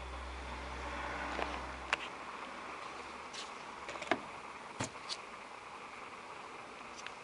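A low steady hum that stops about two seconds in, then several sharp, separate clicks and taps over a steady hiss.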